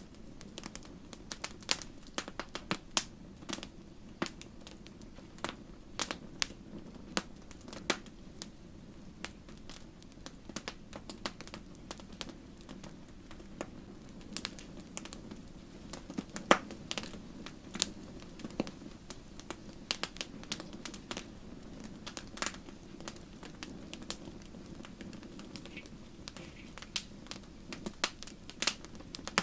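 Campfire crackling: a steady low rumble of burning wood under irregular sharp pops and snaps, one louder pop about halfway through.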